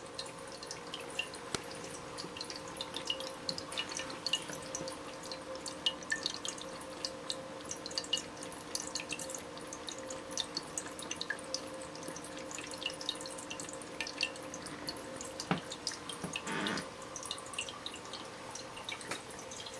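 Ceramic pet drinking fountain running: water dripping and trickling into the bowl in dense, irregular drops over a steady pump hum. There is a single knock about three-quarters of the way through and a brief louder splash just after it.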